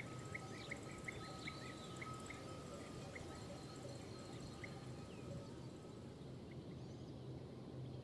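Faint outdoor field ambience with short bird chirps repeated irregularly, and a thin steady high tone that stops about six seconds in.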